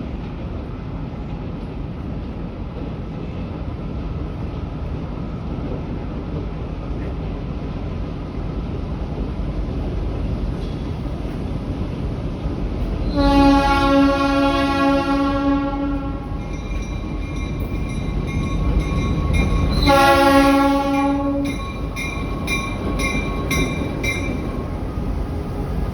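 Train horn sounding a long blast and then a shorter one over the steady rumble of a train rolling through the station, followed by a repeated ringing.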